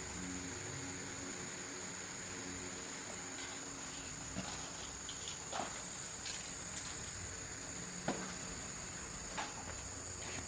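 Steady high-pitched insect trill, like crickets, over a low background hum, with a few faint light clicks and taps.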